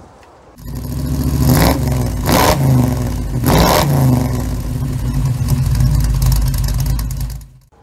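Car engine running, revved three times in quick succession about one and a half, two and a half and three and a half seconds in, then running steadily until it cuts off suddenly near the end.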